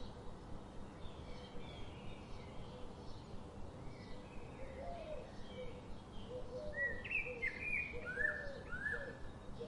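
Forest birds chirping and calling over a steady low background hiss, with a lower repeated call joining about halfway through. The high chirps grow busier and louder near the end.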